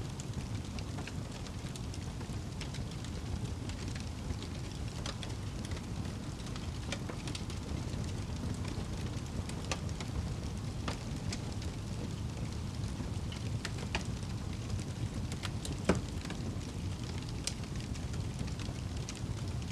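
Wood campfire crackling and popping in irregular sharp clicks over a steady low rumble, with one louder pop about sixteen seconds in.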